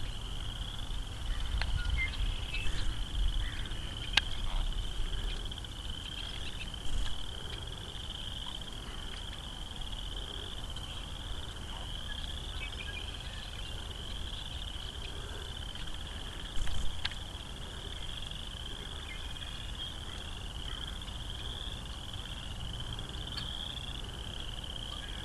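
Crickets chirping in a steady, pulsing chorus, with a low rumble over the first few seconds and a few brief knocks.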